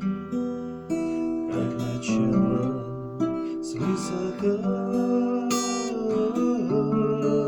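Acoustic guitar playing the introduction of a song, with chords struck several times and notes left ringing between the changes.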